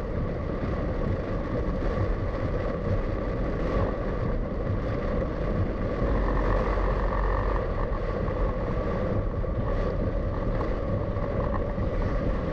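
Steady engine and road noise of a car being driven, heard from inside the cabin, growing a little louder about halfway through.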